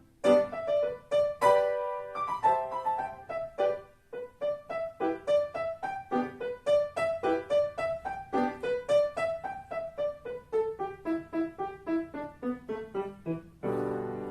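Solo piano playing a quick, lively passage of short detached notes, stepping downward near the end and closing on a final chord left ringing.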